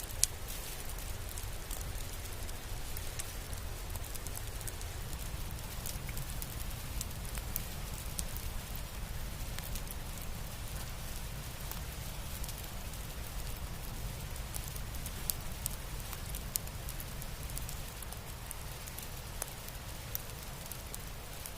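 Campfire crackling: sparse, irregular pops and ticks over a steady low rumble.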